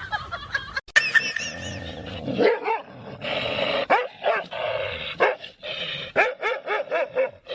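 A dog barking repeatedly in short barks, coming faster in the second half.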